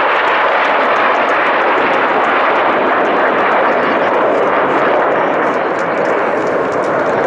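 Fixed-wing aircraft engine noise: a loud, steady rushing with no clear pitch that hardly changes in level.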